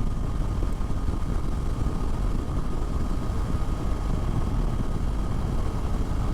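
Motorcycle running steadily at road speed, heard from on board as a constant low engine and road rumble.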